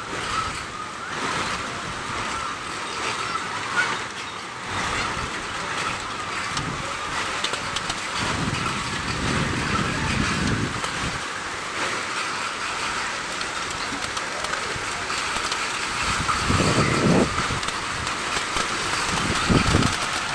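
Steady rain hiss mixed with road traffic, with a few vehicles rumbling past, the last two near the end.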